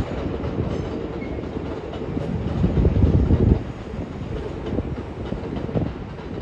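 A train rolling along the rails, a low rumble with wheel clatter that swells about three seconds in, then drops off suddenly.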